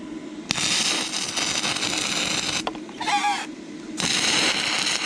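Stick-welding arc burning a 6011 electrode on rusty, painted thin steel: a dense crackling hiss that starts about half a second in, breaks off after about two seconds, and strikes up again about four seconds in.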